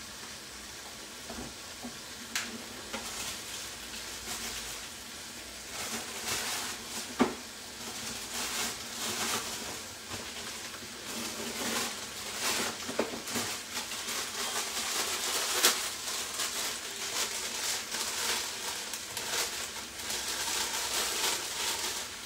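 Lamb offal frying in a pan: a steady sizzle with scattered crackles and a few sharper pops, growing louder from about six seconds in.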